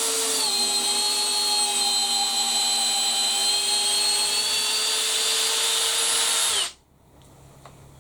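Makita XPH06 cordless brushless hammer drill running steadily on its lowest setting, driving a drill screw, its motor whine dipping slightly in pitch under load about half a second in. Near the end it winds down and stops suddenly, followed by a few faint clicks.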